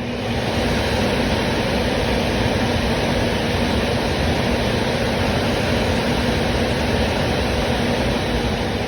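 Squirrel-cage blower fan from a household furnace running on high: a loud, steady rush of air over a low motor hum. It builds up over the first half-second as the fan comes up to speed.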